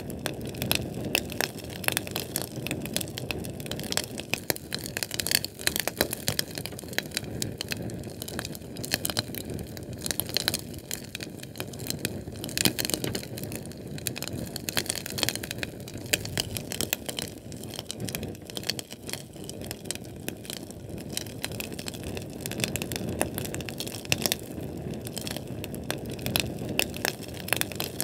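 Fire crackling steadily: a dense, irregular run of small pops and snaps over the low rushing of the flames.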